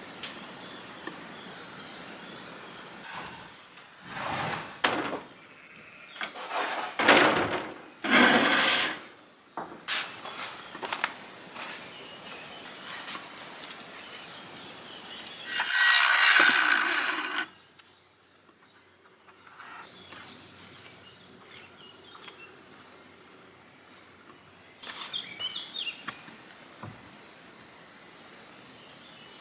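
A steady, finely pulsing high-pitched insect trill runs throughout. Over it come several louder work or handling noises: a few knocks early on and a noisy burst lasting over a second about 16 seconds in.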